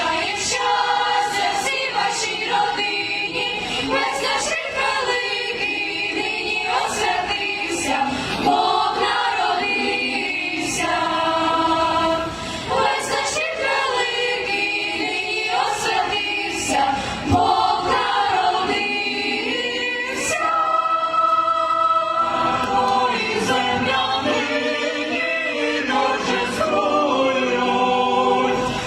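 A choir of music-school teachers and pupils singing a Ukrainian Christmas carol (koliadka) in several voices.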